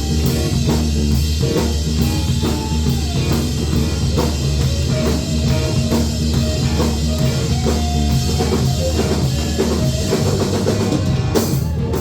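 Live rock band playing: a drum kit keeping a steady beat under bass and electric guitar, with a lead line that slides and bends in pitch.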